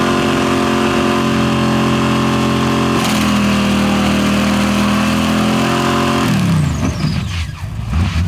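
Off-road vehicle engine running steadily at high revs. About six seconds in its pitch drops sharply, then climbs again near the end.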